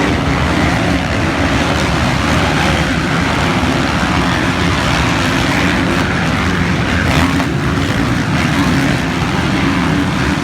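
Motocross bikes' engines running steadily and loudly.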